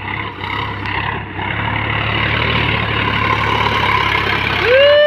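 Tractor engine running steadily. Near the end comes a brief, loud pitched tone that rises and then falls away.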